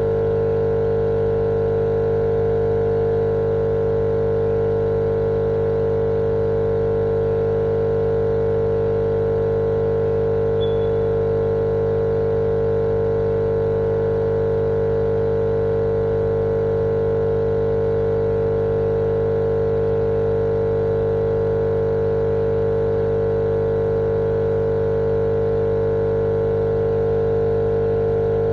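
Steady, unchanging machine hum with a strong mid-pitched tone over a low drone and a layer of hiss, like a motorised appliance running continuously.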